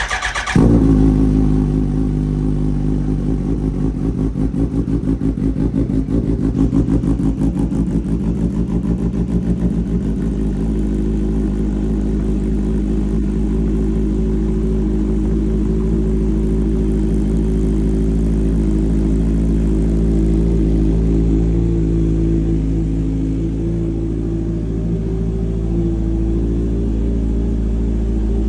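Kawasaki motorcycle engine on a cold start: it catches with a brief louder burst about half a second in, then idles steadily.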